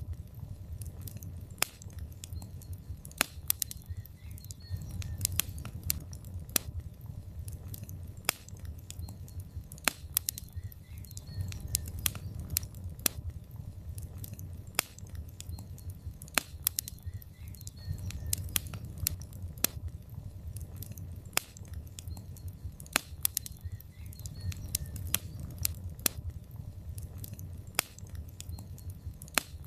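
Wood logs burning in a fireplace, crackling: sharp pops and snaps at irregular intervals, several a second, over a steady low rumble of the flames.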